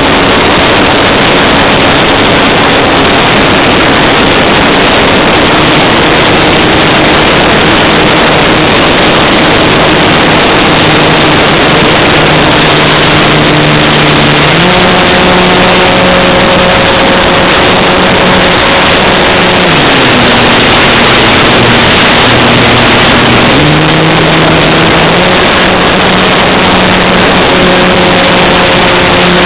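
Electric motor and propeller of a Hype Cessna 182 RC model aeroplane humming in flight, its pitch stepping up and down abruptly several times as the throttle is changed, under a loud steady rushing noise.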